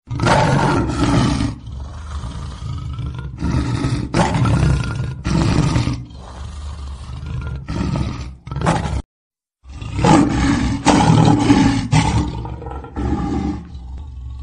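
Lion and tiger roaring at each other in a string of loud, separate bursts, with an abrupt break to silence about nine seconds in.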